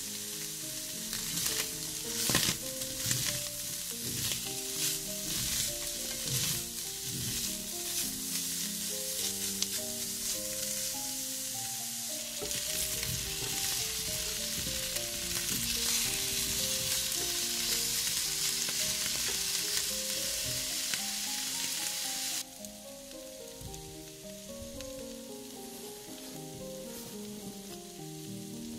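Chopped vegetables sizzling as they fry in oil in a pan, stirred with a utensil that clicks against the pan. The sizzling cuts off suddenly about three-quarters of the way through, leaving soft background music with a gentle melody.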